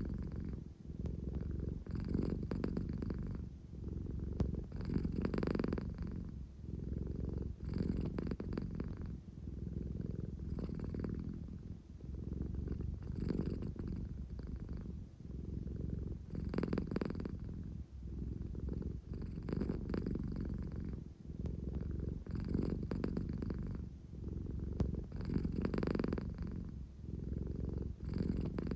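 An American Shorthair cat purring steadily, the purr swelling and easing with each breath about every three seconds.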